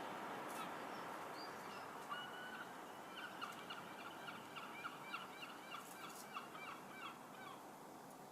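A bird giving a run of short, pitched calls, about three a second, starting about two seconds in and stopping near the end.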